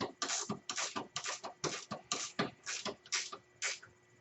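Ratchet wrench worked back and forth in quick strokes, about two or three a second, while snugging down suspension bolts; the strokes stop near the end.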